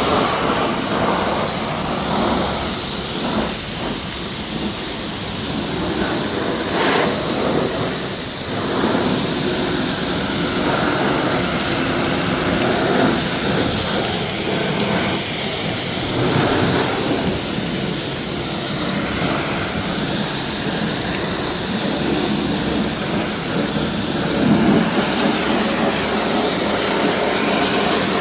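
Pressure washer spraying water against the car body: a loud, continuous rushing hiss that shifts in tone as the spray moves over different surfaces.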